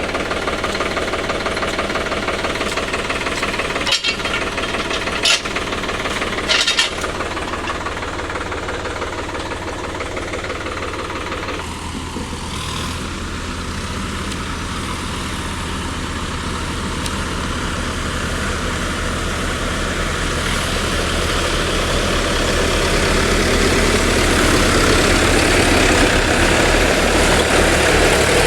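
Tractor diesel engine running steadily, its note changing about twelve seconds in and growing louder over the last several seconds. A few sharp knocks sound between about four and seven seconds in.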